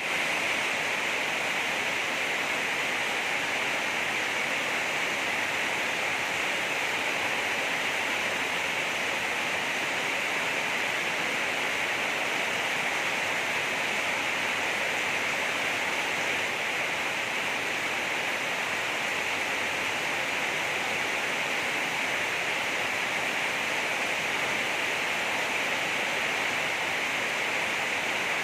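Heavy rain falling steadily, an even hiss with no separate drops or thunder standing out.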